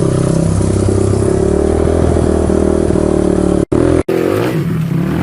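Honda XR200R's single-cylinder four-stroke engine running under throttle as the bike is ridden, fairly steady at first. After two brief cuts in the sound about three and a half seconds in, it revs up and down.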